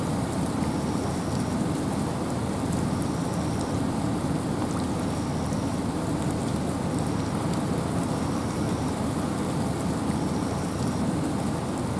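Steady rain falling in a forest, with wind: an even, unbroken rush heaviest in the low range, with scattered drop ticks. Faint short high-pitched tones recur every second or two.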